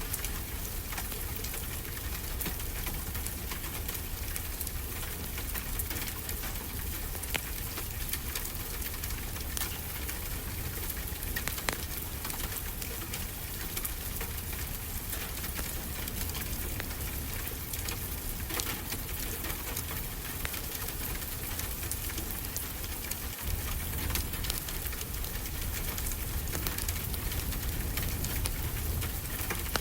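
Crackling wood fire over the steady wash of ocean waves: a constant hiss and low rumble with frequent small sharp pops and crackles.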